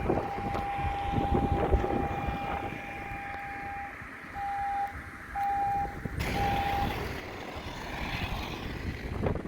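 A vehicle horn sounds one long steady blast of about four seconds, then three short honks at the same pitch, over the rumble of passing traffic.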